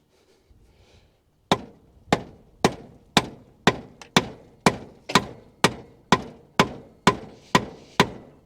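Hammer blows driving a 2x4 down onto the pistons of a seized, rusted Chevrolet small-block V8 with its cylinder head off, an attempt to break the engine free. The blows start about a second and a half in and fall in a steady rhythm of about two a second.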